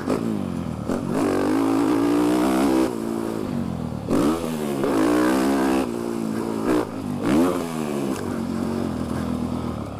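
Dirt bike engine being ridden hard, revving up and dropping back off several times, heard through a microphone inside the rider's helmet.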